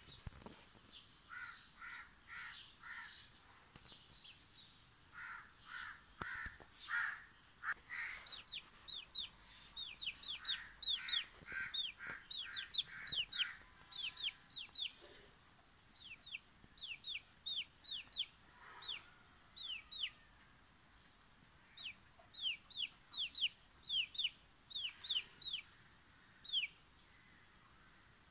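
Domestic chick peeping: runs of short, high-pitched, sharply falling peeps, the calls of a frightened chick. Lower, rougher clucking calls come first, for about the first eight seconds.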